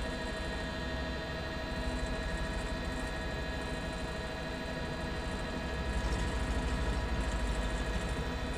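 Helicopter cabin noise: a steady rotor and engine drone with rapid low pulsing and fixed whining tones, getting a little louder about six seconds in.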